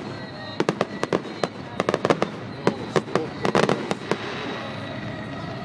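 Fireworks display: a quick run of sharp bangs and crackling reports, densest around three to four seconds in, that stops about four seconds in.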